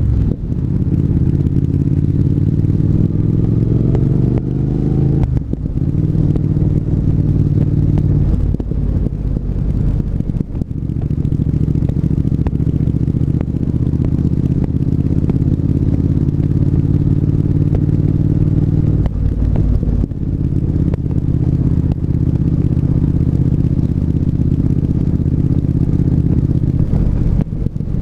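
Triumph 1200 cc parallel-twin motorcycle engine under way, its note rising for the first few seconds, then held mostly steady. The note breaks off briefly a few times.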